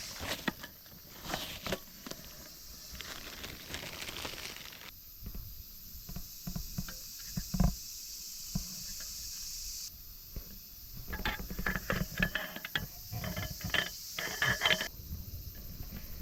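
Aluminium folding camp table being set up: scattered clicks, knocks and light rattling of the metal legs and tabletop being handled and fitted together, busiest in a run of sharp clinks near the end, over a steady background hiss.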